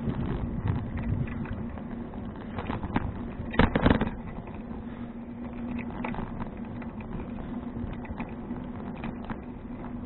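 Bicycle riding noise: rattling and clicking of the frame and parts over the road surface, with a louder clatter a little under four seconds in.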